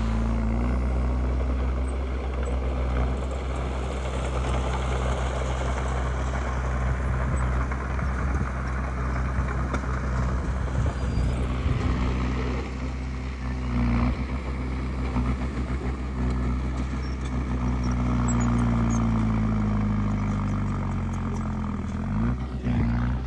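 Komatsu D20P bulldozer's diesel engine running under load, with a rough noise over it for the first half. Later the engine pitch sags over several seconds, then climbs quickly near the end.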